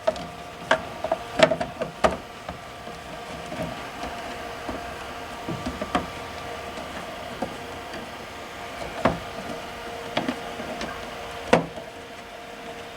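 Duck eggs being turned by hand in an incubator: irregular light knocks and clicks of eggs and the incubator's plastic, over a steady hum.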